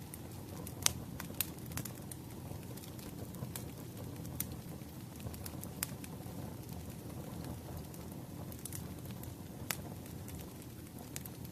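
Wood fire burning: a steady low rush of flames with irregular sharp crackles and pops, a few of them louder.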